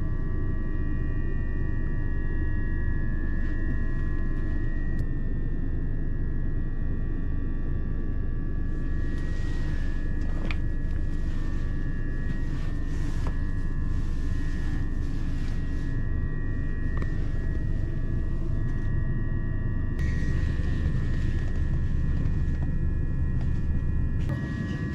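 Electric passenger train running: a steady low rumble from the wheels on the track under a constant high motor whine. Twice a hissing rush joins for several seconds, about a third of the way in and again past the middle.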